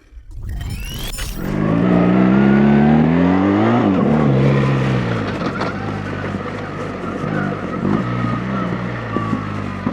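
BMW R 1300 GS Adventure's 1300 cc boxer-twin engine under acceleration: about a second and a half in, the revs climb for roughly two seconds, fall back sharply, then run lower and steadier with small throttle rises and falls.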